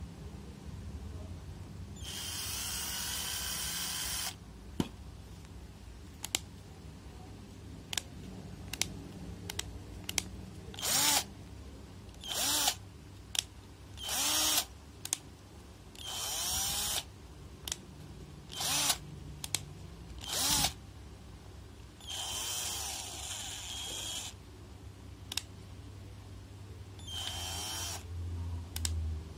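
Xenon cordless electric drill run in trigger bursts, the motor spinning up and winding down each time. There is a run of about two seconds near the start, then a string of short pulses and two more longer runs, with sharp clicks in the gaps.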